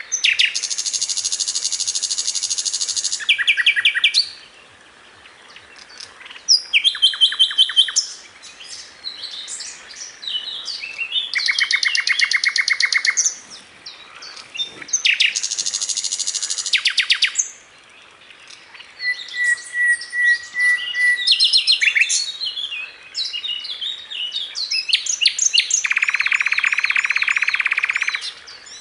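Sikatan londo flycatcher singing: phrases of very rapid, buzzy trills and sharp chattering notes, broken by short pauses, the loud continuous song a bird gives when in full voice.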